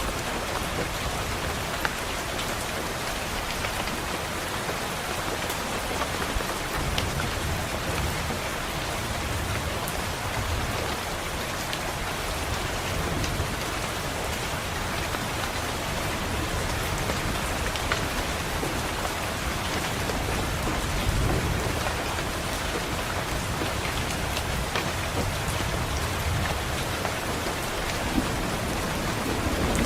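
Steady rain pattering on a window glass, with low rumbles of distant thunder swelling about a quarter of the way in and again past two-thirds of the way through.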